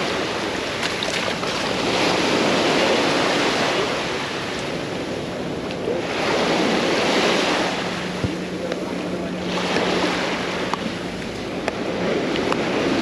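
Small waves breaking and washing up the beach, the surf swelling and falling away every three to four seconds.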